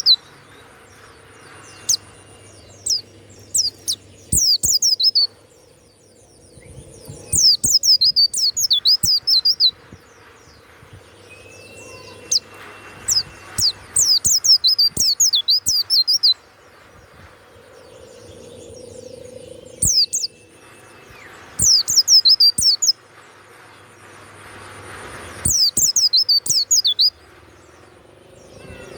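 White-eye (pleci) singing in loud bursts of rapid, high twittering phrases, each a couple of seconds long, with short pauses between.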